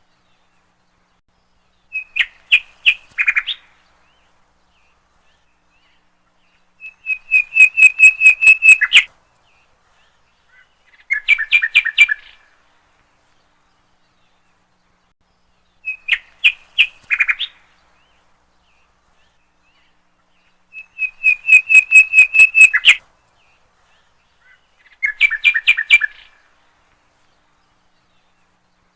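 A bird chirping in short runs of quick, evenly spaced notes, six runs in all, with clean silence between them. The runs come as a set of three that repeats almost identically about every 14 seconds, as a looped recording would.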